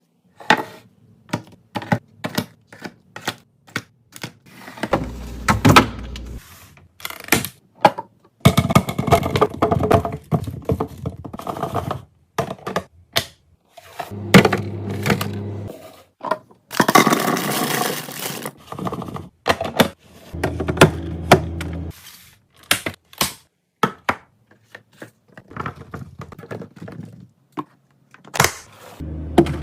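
Food packages and containers being handled and set down: a fast run of clicks, taps and thunks with stretches of rustling and scraping.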